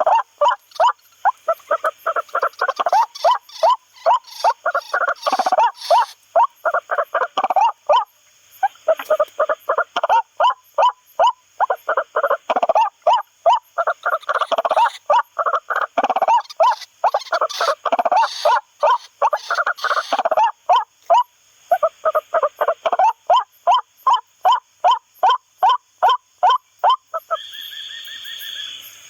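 White-breasted waterhen (ruak-ruak) calls, a long series of repeated call notes about three a second, in bouts with short breaks, as used for MP3 lure playback. Near the end the calls stop briefly and a short steady higher tone sounds.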